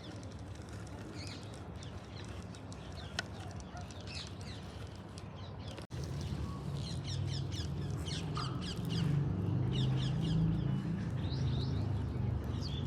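Small birds chirping, with rapid runs of short falling calls in the second half, over a steady low hum that grows louder about six seconds in.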